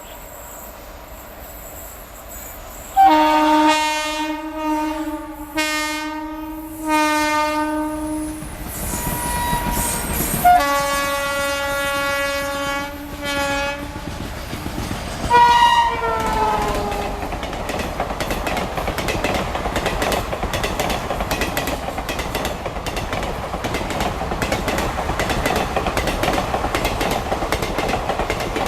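Express train's locomotive horn sounded in a string of short two-tone blasts, then a longer blast, then a short blast that falls in pitch as the locomotive passes. After that the coaches run past, wheels clattering rhythmically over the rail joints.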